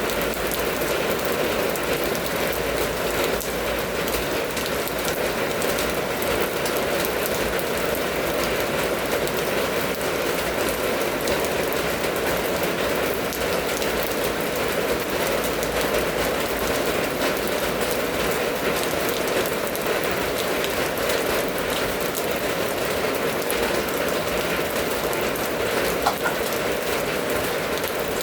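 Steady rain falling, dense drops pattering on a surface.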